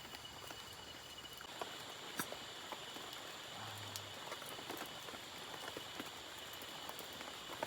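Night insects chirring steadily in a high pitch, with scattered soft clicks and ticks.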